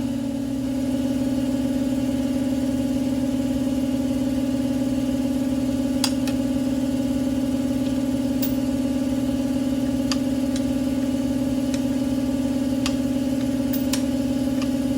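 A machine's steady, even hum, with a few light clicks scattered through it.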